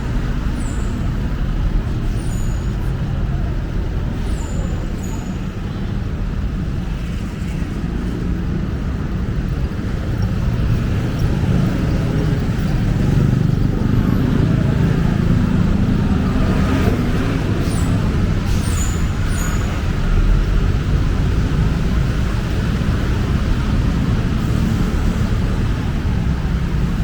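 Busy city road traffic: a steady wash of engine and tyre noise with a low rumble that swells as heavier vehicles pass near the middle. A few brief high chirps cut through near the start and again later.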